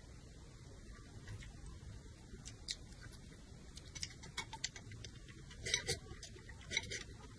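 Close-miked eating sounds of someone eating noodles from a bowl with chopsticks: wet chewing and mouth smacks heard as scattered short clicks, busiest about six seconds in.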